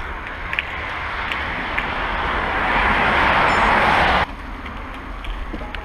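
A vehicle passing close, its rushing noise growing louder for about four seconds and then cutting off suddenly, over a low rumble of wind on the microphone.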